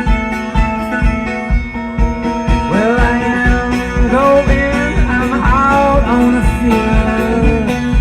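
A live band playing an instrumental passage with guitar over a steady drum beat, about two beats a second. From about three seconds in, the lead line slides up into its notes.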